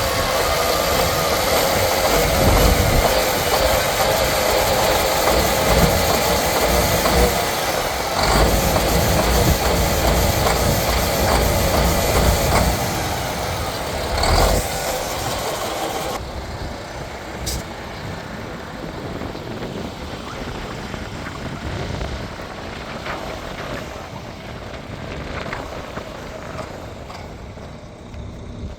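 Diesel engine of a 2011 International WorkStar 7600 dump truck running just after starting, loud for roughly the first half. There is a short burst of noise about 14 seconds in, and from about 16 seconds the sound settles noticeably quieter.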